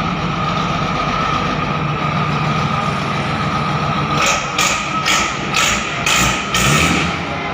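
YTO 1304 tractor's diesel engine running steadily. From about four seconds in, a run of short hissing bursts repeats roughly twice a second over the engine.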